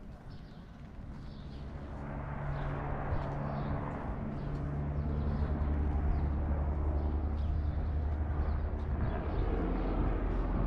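Small birds chirping repeatedly, high and short, over a low steady hum that grows louder and drops in pitch toward the end.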